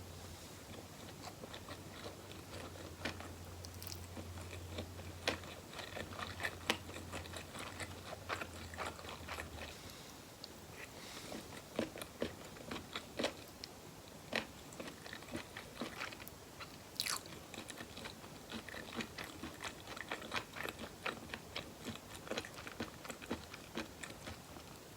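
Close-miked eating: a person biting and chewing food, a run of many small wet clicks and snaps in the mouth, with no talking.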